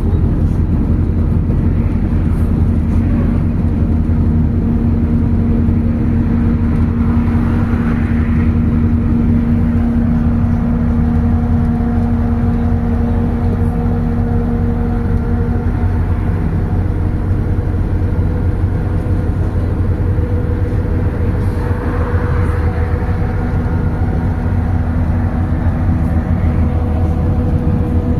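MAZ-206 city bus under way, heard from aboard: a steady loud rumble of engine and road noise with a few steady whining tones that shift in pitch about halfway through.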